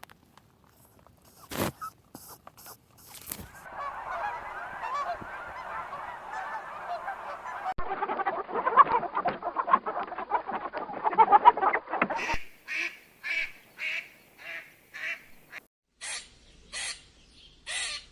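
A flock of waterfowl calling: a few sharp calls, then a dense, overlapping chorus of honking calls, then a run of separate calls about two a second, and three single calls near the end.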